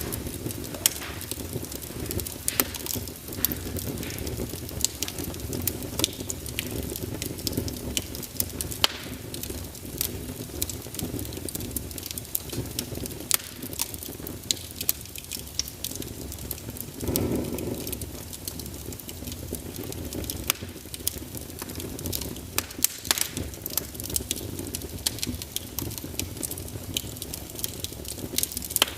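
Wood fire burning in a fireplace: steady low rumble and hiss of the flames with frequent irregular sharp crackles and pops from the logs. A brief louder hiss comes about seventeen seconds in.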